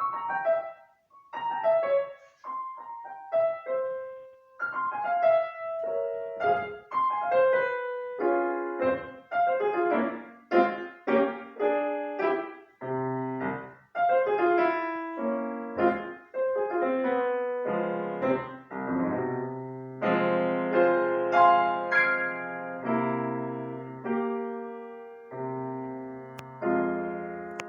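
Solo piano music: a short student piece played note by note. Bass notes come in about halfway, louder chords follow later on, and the piece closes on a held chord that rings out.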